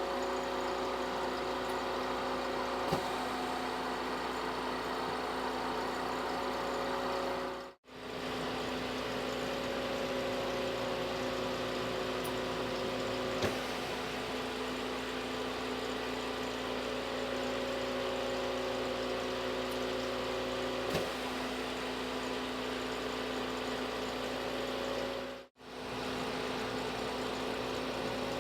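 Steady machine hum with a few steady tones, broken twice by brief drop-outs to silence, with a few faint clicks.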